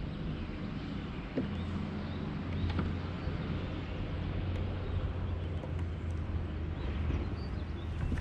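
Kayak under way across the lake: a steady low hum with wind noise over the microphone, and a few light knocks.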